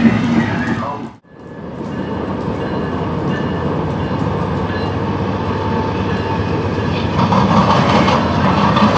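A train rolling past at track side: a steady rumble of wheels and cars on the rails, growing a little louder near the end. About a second in, the sound cuts out briefly and fades back in.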